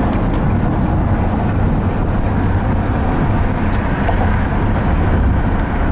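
Steady road and engine noise heard from inside a car's cabin while cruising on a freeway.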